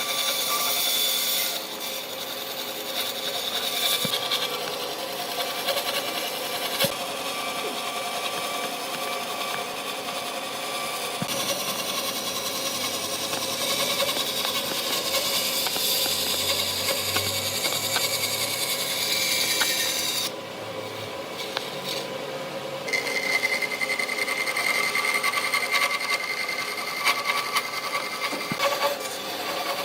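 Power tools working wood, running steadily with a high whine that shifts in pitch, the sound changing abruptly a few times.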